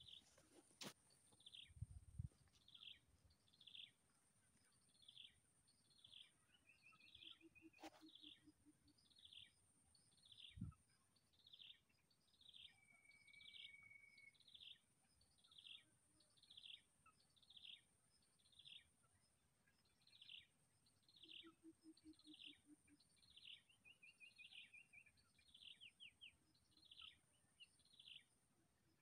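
Faint, repeated bird call: a short falling chirp given over and over, roughly one every three quarters of a second, against a steady high-pitched hiss.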